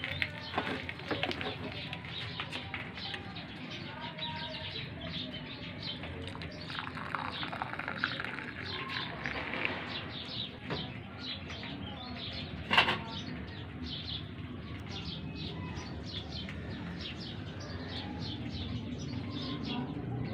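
Birds chirping in the background, many short high calls one after another, with a single sharp knock about thirteen seconds in.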